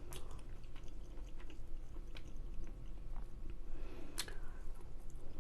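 Close-miked chewing of a mouthful of chicken tikka masala: soft, wet mouth sounds with small clicks, one sharper click about four seconds in.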